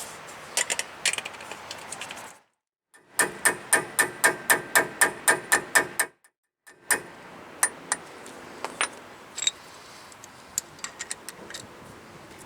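Hammer tapping a Torx bit into a broken brake bleed screw, sharp metallic strikes with a ringing edge. There are a few scattered taps, then a steady run of about four strikes a second for some three seconds, then occasional single taps.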